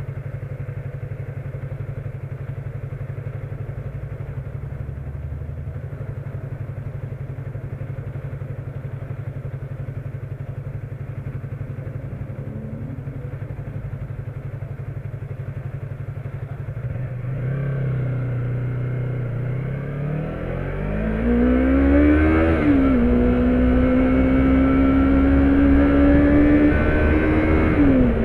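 Motorcycle engine idling steadily, then pulling away about seventeen seconds in: the revs climb, drop at a gear change, and climb again before another shift near the end.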